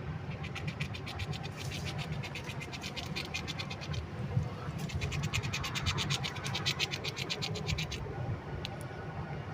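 A red squirrel gnawing a hazelnut shell: rapid, even scraping strokes, about seven a second, in two runs with a short pause between them.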